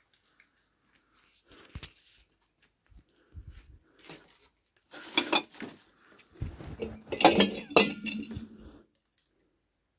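Hard objects clinking and clattering: a sharp knock about two seconds in, scattered clatter about five seconds in, then a loud, dense run of clattering with some ringing from about six and a half seconds in.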